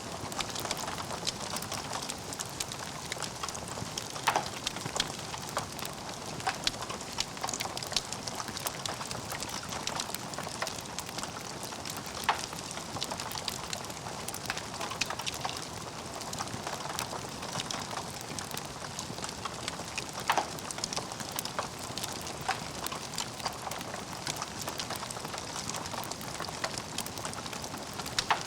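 Logs burning in a fireplace, crackling steadily, with a few louder pops.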